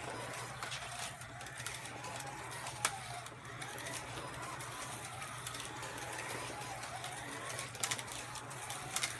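Carrera Digital 132 slot cars racing round the track: their small electric motors whine, rising and falling in pitch as the cars speed up and slow down. Over it runs a steady hum and the rattle of the cars in the slots, with a few sharp clicks.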